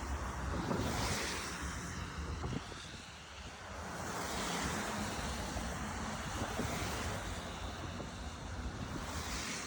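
Street traffic on wet pavement: tyres hissing past in several swells that build and fade over a second or two, over a low rumble.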